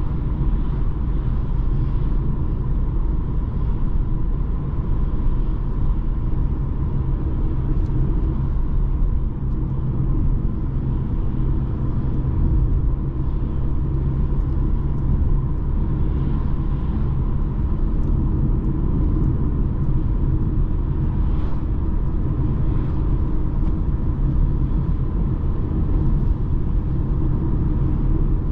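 Steady rumble of a BMW 220d xDrive on the move: its four-cylinder diesel engine and tyre and road noise, unchanging throughout, with a faint steady whine over the low drone.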